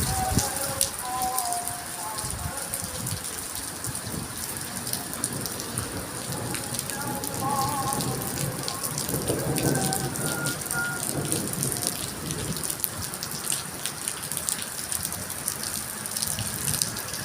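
Heavy rain falling steadily: an even hiss, with many sharp drop hits on hard surfaces.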